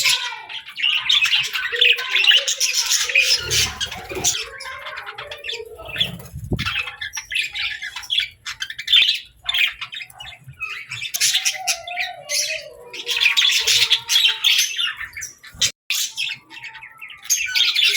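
Pet budgerigars chattering and chirping in a busy, continuous stream of short high calls, thinning out for a few seconds near the middle. There are a couple of low thuds in the first half.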